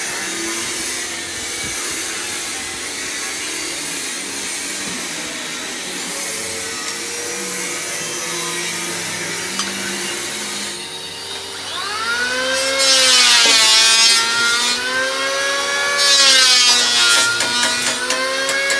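Power tool running steadily, then working under load from about twelve seconds in, its motor whine dipping and rising again and again.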